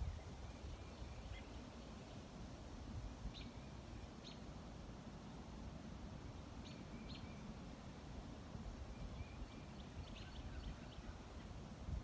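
Small birds chirping faintly, a few short high calls spaced a second or more apart, with a quick run of them near the end, over a steady low background rumble.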